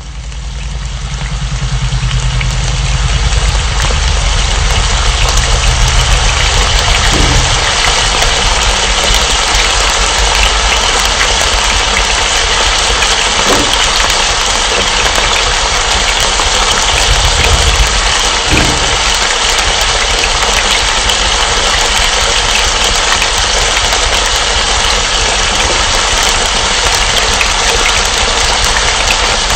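Chicken breast frying in olive oil in a nonstick pan: a steady sizzle, with a low hum underneath.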